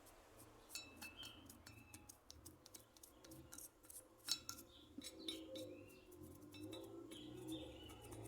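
Faint scattered light clicks and clinks, with short high chirps among them; a low steady hum comes in about five seconds in.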